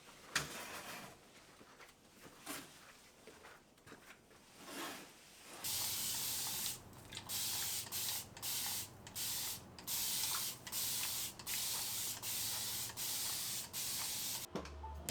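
Small handling clicks, then a long run of hissing spray bursts, each about half a second to a second long with short breaks between them, starting about five and a half seconds in and stopping just before the end.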